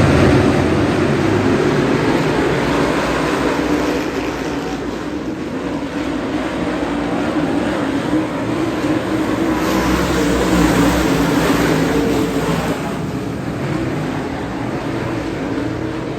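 Dirt-track modified race car engines running hard at racing speed, steady, with a brighter, slightly louder stretch about ten to twelve seconds in.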